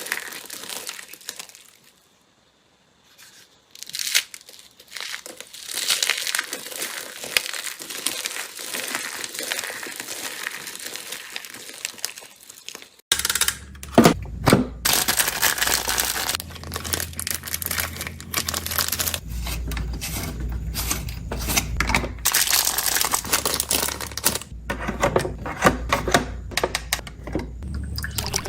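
Slime being squeezed, stretched and poked by hand, with crinkling and crackling sounds. About thirteen seconds in the sound changes abruptly to a fuller one with a low hum under it and many sharp pops and clicks.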